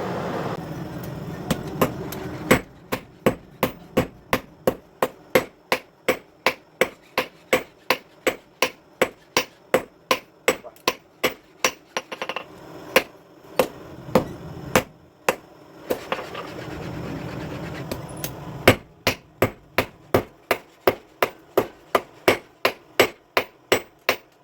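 A hand hammer strikes sickle steel on an anvil in steady forging blows, about two a second, with a pause in the middle. A steady noise runs at the start and again during the pause.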